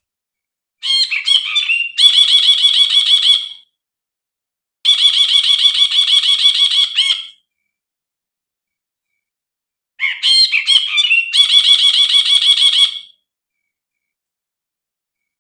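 Brinji bulbul singing: three phrases of fast, repeated chattering notes, the first and last opening with a few varied chirps. Short silences separate the phrases.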